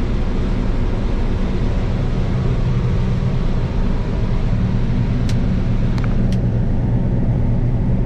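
Combine harvester running steadily while harvesting soybeans, a constant machine drone. Three short clicks come a little past halfway.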